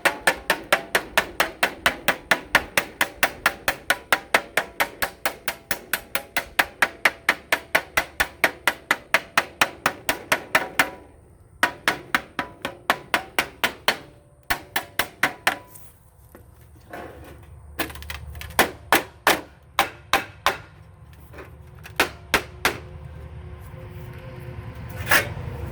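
Hammer striking light sheet metal to bend a fold by hand: a fast, even run of blows, about four to five a second, for some ten seconds. After that come shorter runs and scattered single blows.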